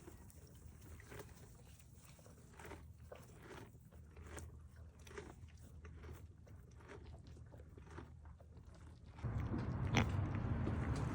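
Irregular crunching and chewing, like an animal eating. About nine seconds in, a louder steady noise sets in.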